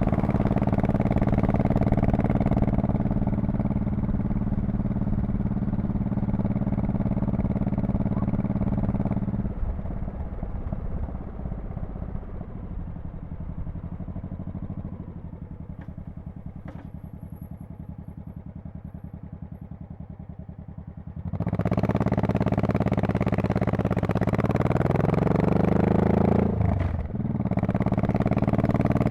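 Honda Shadow Spirit VT1100C's V-twin engine and exhaust. It runs steadily under way, then drops to idle about a third of the way in and idles for around ten seconds. It then revs up as the bike pulls away, with a short break in the rising pitch near the end, like a gear change.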